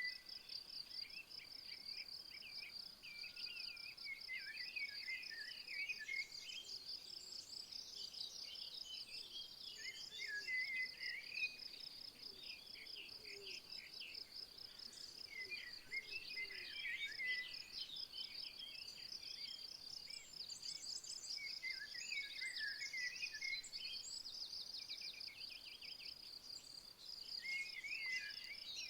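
A continuous high, fast-pulsing insect trill, like crickets, goes on throughout. Small birds sing short, twittering phrases over it now and then, in several separate bouts.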